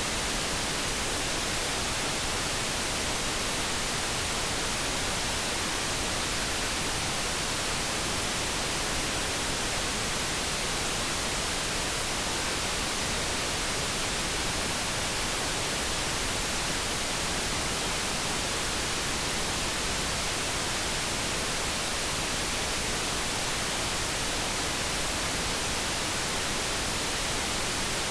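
Steady, even generated background noise: a constant hiss with no tone, rhythm or change, and no kettle hum to be heard.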